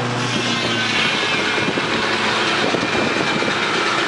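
A steam-engine-driven sawmill running. A steady machine hum fades about a quarter-second in, leaving a loud, rough, rattling mechanical noise.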